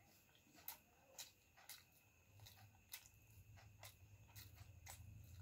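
Faint eating sounds: scattered soft clicks and smacks of a person chewing pasta eaten by hand.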